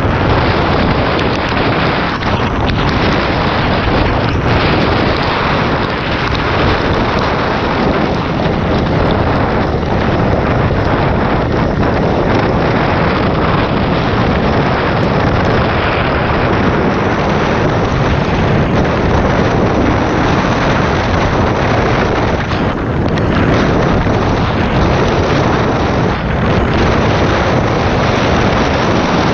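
Dirt bike riding: loud, steady wind rushing over the microphone, mixed with the motorcycle's engine.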